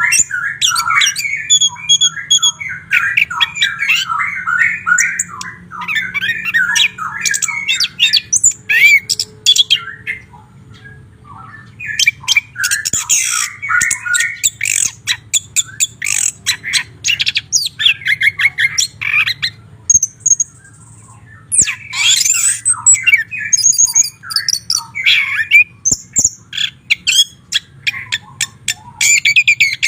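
White-rumped shama singing a loud, fast, varied song of quick chattering notes and whistles, pausing briefly twice.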